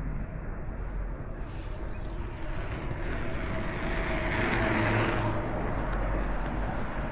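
Urban traffic noise with a motor vehicle passing, growing louder to a peak around the middle and then easing off.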